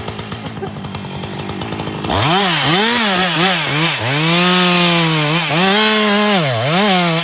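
Two-stroke chainsaw ticking over at idle, then throttled up about two seconds in; the engine note swoops down and back up several times and holds high between the dips, as when the chain is run through wood.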